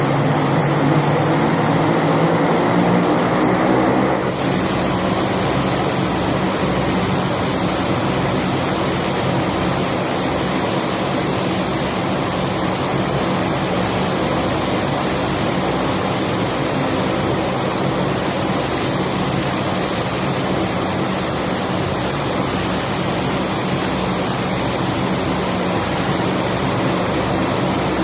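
Aircraft engines running, their pitch rising over the first few seconds. After an abrupt change about four seconds in, a steady engine drone continues.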